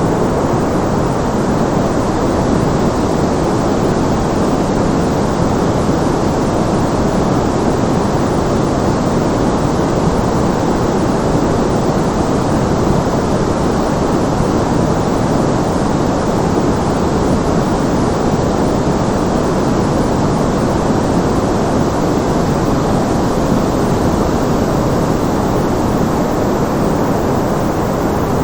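Generated background white noise: a constant, unchanging rush, heavier in the low and middle pitches and dull rather than hissy.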